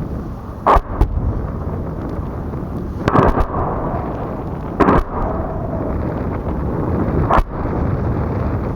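Weapons fire during a live-fire exercise: about five sharp shots or blasts, irregularly spaced and one of them doubled, over a steady low rumble of helicopter and wind noise.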